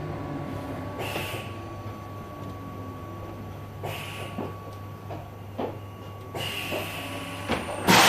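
Inside a Tokyo Metro 5000 series subway car: a steady low hum from the train's equipment, with short hisses of air every few seconds. Near the end a much louder rushing noise starts suddenly.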